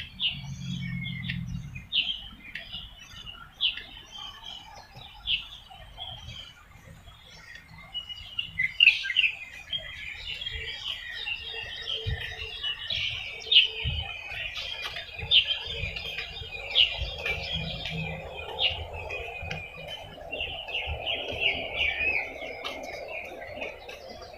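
Birds chirping in trees. At first there is a single chirp about every second and a half; from about eight seconds in, a dense chorus of many overlapping chirps takes over.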